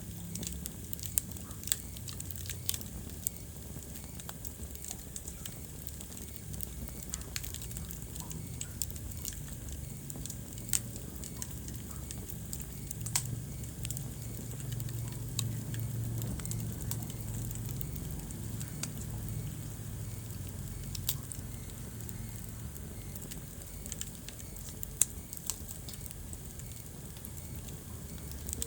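Wood fire crackling in a fireplace: irregular sharp pops and snaps over the low rumble of the flames.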